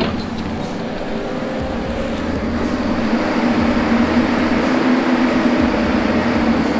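Heavy diesel logging machine engine running steadily, a continuous drone with a steady hum that grows slightly louder in the second half.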